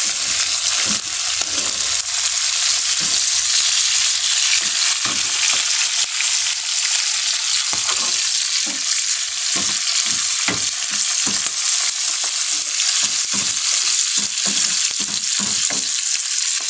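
Chilies, garlic and shallots sizzling steadily in hot oil in a small frying pan, stirred with a ladle that clicks and scrapes against the pan many times. The whole spices are being sautéed before they are ground into a paste.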